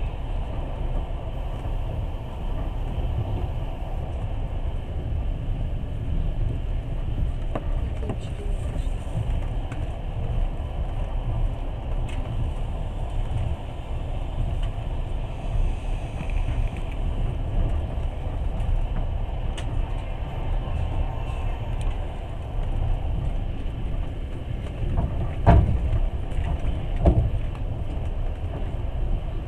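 Passenger train running at speed: a steady low rumble of wheels on track, heard from inside the carriage, with two louder knocks about a second and a half apart near the end.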